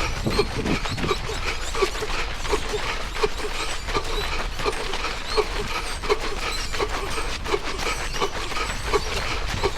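A running man's heavy, wheezing breathing: a short squeaky note on each breath, about twice a second, keeping a steady rhythm, with his footfalls underneath.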